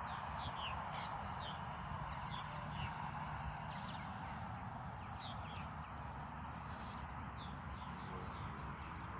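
Birds calling outdoors: short, high, falling chirps one or two a second, with a harsher, raspier call about every second and a half, over a steady background hiss and a low rumble.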